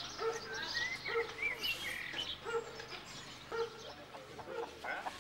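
Birds chirping and calling, with short repeated calls about once a second and a few higher rising chirps.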